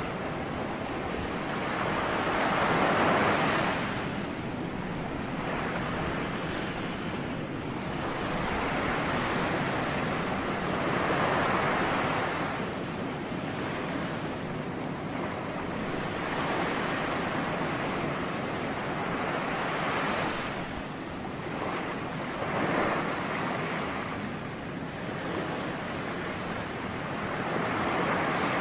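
Ocean surf: waves breaking and washing up on the shore in a continuous rushing sound that swells and subsides every few seconds.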